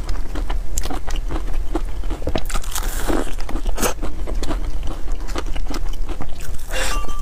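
Cream puffs being bitten and chewed close to the microphone, with many quick, sharp crackles of the pastry shell.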